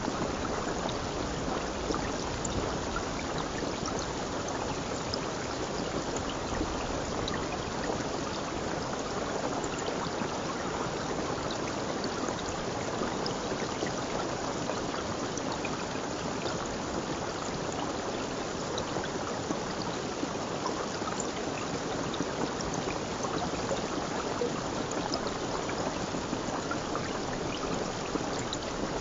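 Steady running water of a stream, an even rush with faint small splashes above it.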